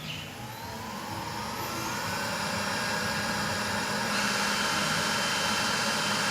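Roborock S50 robot vacuum starting a cleaning run, its suction fan spinning up: a whine that rises in pitch over a growing rush of air, then runs steadily.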